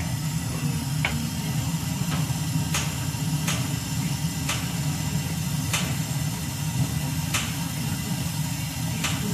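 Newly installed Williams gas wall heater at its first firing: a steady low rumble with sharp clicks at irregular intervals of about a second.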